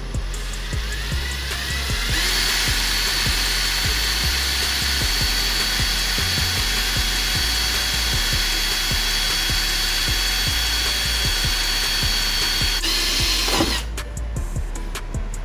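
Electric drill spinning up over about two seconds, then running at high speed with a steady high whine for about ten seconds, slowing and stopping a little before the end.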